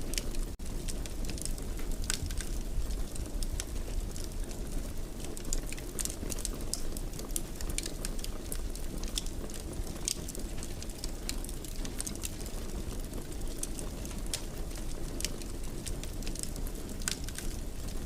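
Fireplace wood fire crackling, with frequent irregular sharp pops and snaps over a steady low rumble of flames. The sound drops out for an instant about half a second in.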